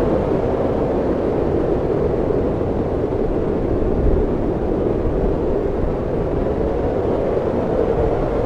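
Snowstorm wind blowing steadily: a low, even rushing noise with no breaks or gusts standing out.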